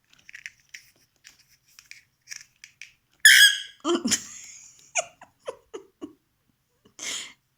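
Pet bird calling: small clicks and chirps, then one loud squawk about three seconds in, a few short falling notes, and a raspy screech near the end.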